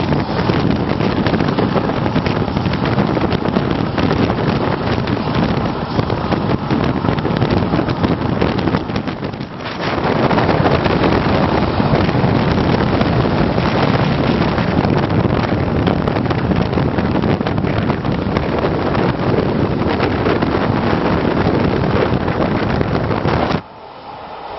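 Wind rushing over the microphone and the steady running noise of a moving passenger train, heard from an open carriage window. It breaks off briefly about ten seconds in, and drops suddenly to quieter in-carriage noise near the end.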